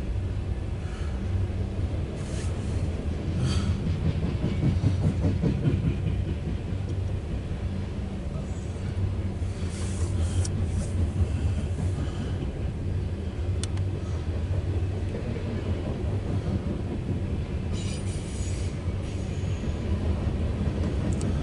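Loaded CSX coal train rolling past: a steady low rumble of wheels on rail, with a few scattered sharp clicks and squeaks.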